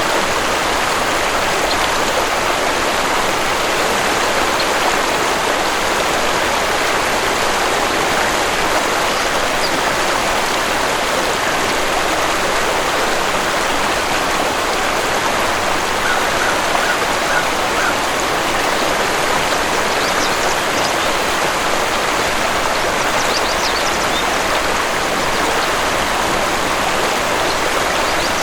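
Waterfall and stream water rushing steadily, with a few faint bird chirps in the second half.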